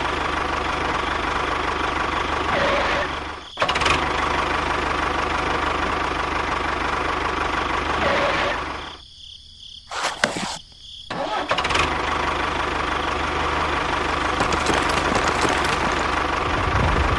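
Tractor engine running steadily with a low drone. It cuts out briefly about three and a half seconds in, and again for a couple of seconds near the middle, where a few sharp clicks are heard, then carries on.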